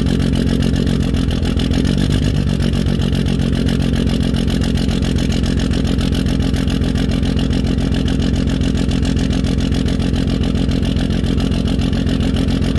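1995 5.9-litre 12-valve Cummins inline-six turbodiesel idling steadily after a cold start without its grid heater, its diesel clatter running out through a 5-inch exhaust. There is a slight wobble in engine speed about two seconds in.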